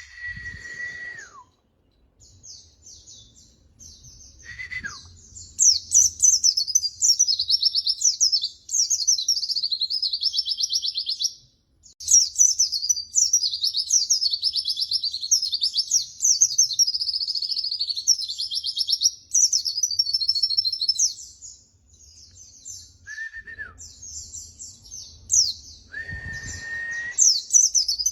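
White-eye (pleci) singing: long, fast, high twittering song phrases with short breaks between them. A few lower held whistles that drop in pitch at the end come in at the start, about five seconds in, and twice near the end.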